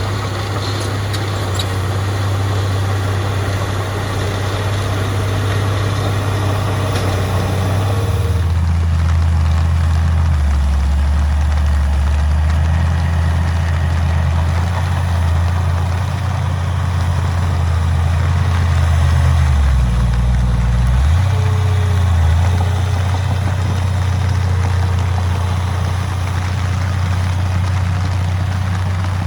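Heavy diesel engine of earthmoving machinery running with a deep, steady drone. About 8 seconds in the higher sounds fall away and the low note deepens, and the note shifts again around 20 seconds.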